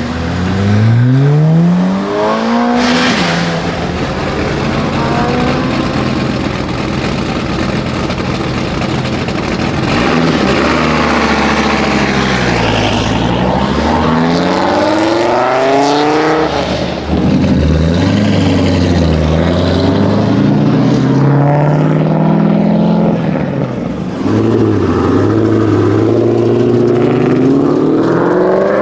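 Performance car engines revving hard and accelerating, the engine note climbing in pitch and falling back again several times in a row.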